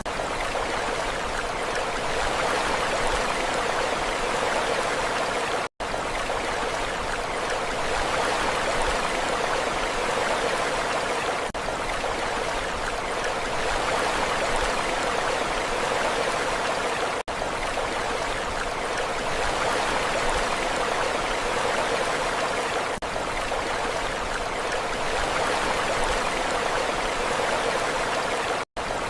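Steady rushing water, an even hiss with no rise and fall of waves. It cuts out briefly about every six seconds, twice almost to silence.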